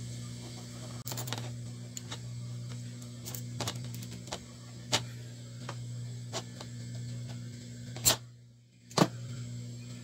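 Sharp clicks and taps of small parts and tools being handled on a workbench, over a steady low electrical hum; the two loudest clicks come near the end, about a second apart.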